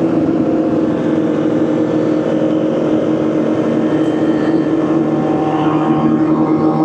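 Motorcycle engine running at a steady speed, its pitch holding level.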